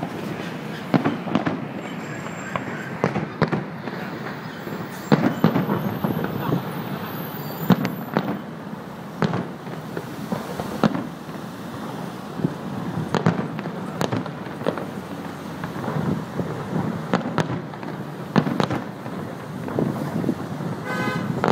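Aerial firework shells bursting in an irregular string of bangs, roughly one or two a second, some much louder than others, over a steady background hubbub.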